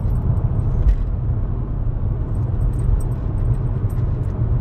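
Steady low road-and-engine rumble inside the cabin of a 2020 Hyundai Elantra accelerating toward about 60 mph on a misfire test drive, with no misfire felt. There is a single thump about a second in and faint light clinks later on.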